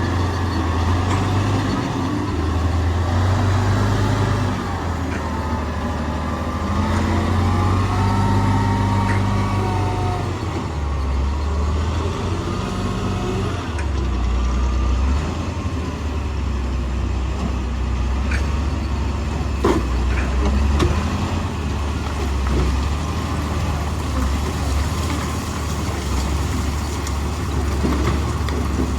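Heavy diesel earthmoving machinery running, its engine revs rising and falling in steps as it works under changing load, with a single sharp knock about two-thirds of the way through.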